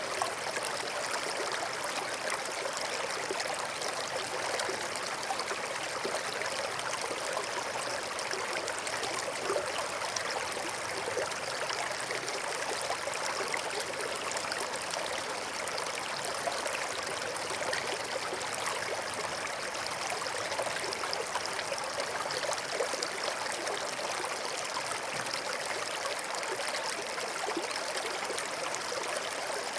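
A small forest stream flowing steadily over rocks, its water babbling and trickling.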